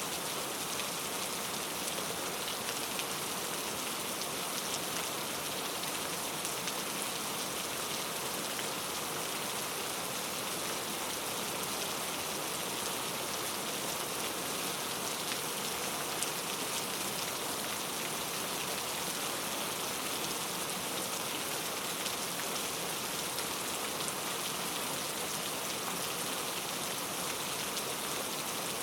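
Steady rain falling, with a dense even hiss and scattered drops pattering on a surface.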